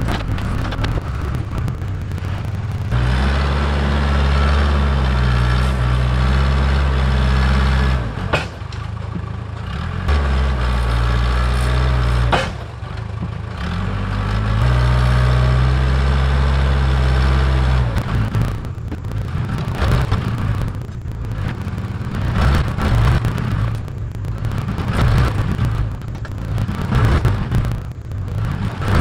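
Diesel engine of farm earthmoving equipment working. It runs up to a steady high speed three times, each time for a few seconds, and drops back between, then carries on at a rougher, uneven rumble.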